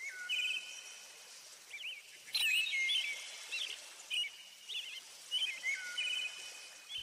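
Birds chirping: short trilled warbles and quick whistled notes repeating throughout, over a steady outdoor hiss.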